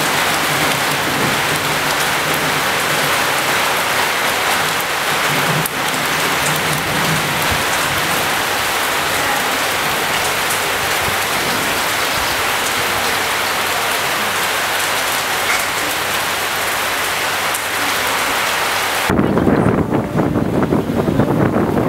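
Heavy rain falling steadily as an even hiss, ending abruptly about nineteen seconds in, where gusty wind noise on the microphone takes over.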